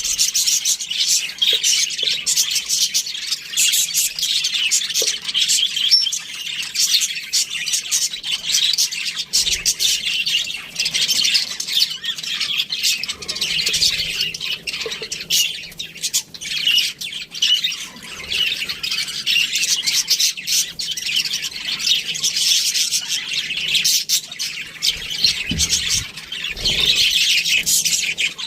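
A flock of budgerigars chattering continuously: a dense mix of chirps, warbles and squawks, with many short clicks throughout.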